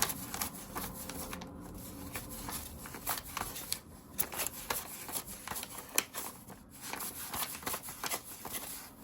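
Paper banknotes flipped through and counted by hand: a run of quick, irregular papery flicks and rustles.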